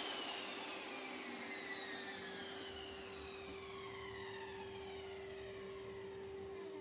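Power tool's electric motor winding down after being switched off: several whining tones fall steadily in pitch over a fading hiss, with a steady hum underneath.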